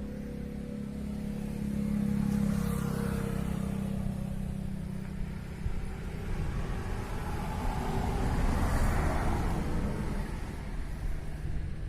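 John Deere tractor diesel engine running, its level swelling twice: once about two seconds in and again near the end.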